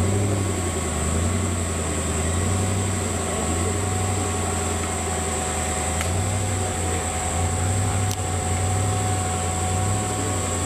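Off-road 4x4 vehicle engine running steadily with a low, even drone, with a steady high-pitched whine above it.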